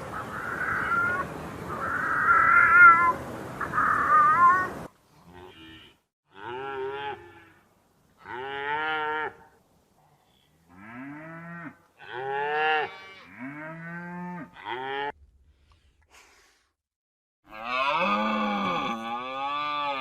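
Cattle mooing: a run of separate calls about a second each, every one rising and falling in pitch, from about five seconds in, and a louder, longer call near the end. The first five seconds hold a noisy stretch with high wavering calls over it.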